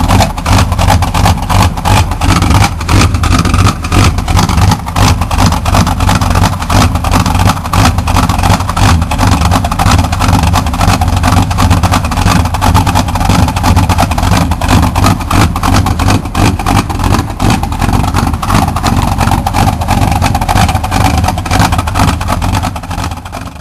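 1975 Chrysler New Yorker's 440 cubic-inch V8 idling loud, rough and lumpy, with a steady uneven pulsing beat. It sounds cammed because the engine has just been started cold.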